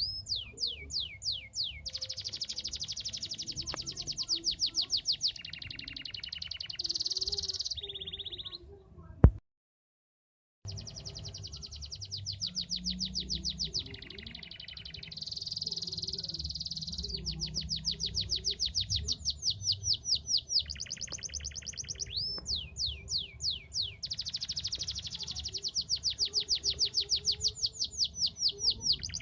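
Domestic canary in full song: long, unbroken runs of rapid trills made of fast, repeated down-sweeping notes, switching between rolls of different pitch. About nine seconds in, a sharp click and a second and a half of silence break the song, and then it resumes.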